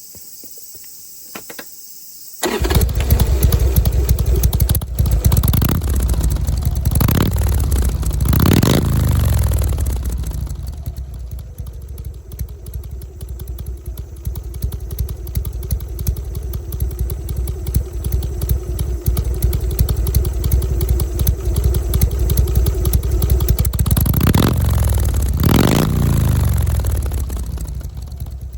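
Harley-Davidson Sportster 1200's air-cooled V-twin exhaust, its silencers punched out to 30 mm, starting up about two and a half seconds in and settling into a lumpy 'potato' idle. The throttle is blipped three times early on and twice more near the end.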